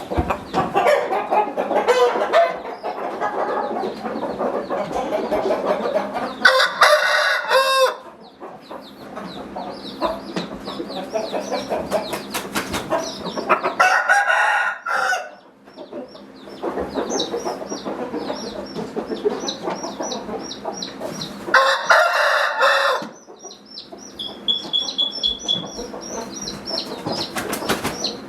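Roosters crowing: three long crows about seven seconds apart, with clucking and fast high chirping in between.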